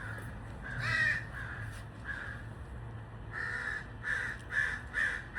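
A crow cawing: one caw about a second in, then a quick run of caws, about two a second, from a little after three seconds in.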